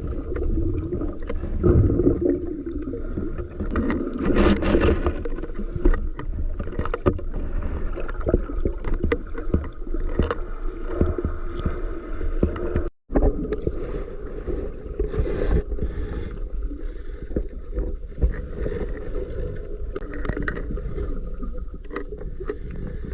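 Muffled water recorded underwater: a steady low rushing of moving water with scattered clicks and bubbling. It breaks off briefly about two-thirds of the way through.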